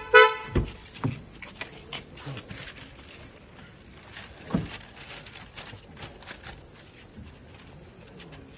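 A short car horn toot right at the start, followed by a few dull low thumps and scattered small clicks and knocks.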